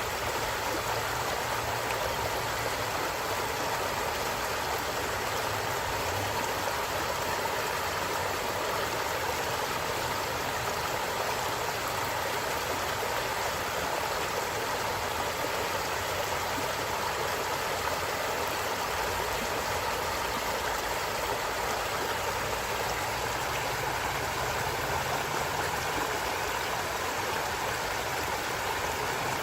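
Stream water running and gurgling over rocks in a steady, unbroken rush.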